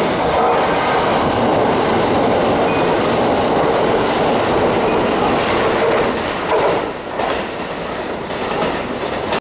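Kintetsu 12410-series limited express electric train passing through the station at speed: a loud, steady rush of wheels on rail with clickety-clack over the rail joints. It falls away about six seconds in as the last car clears, leaving a few final clatters.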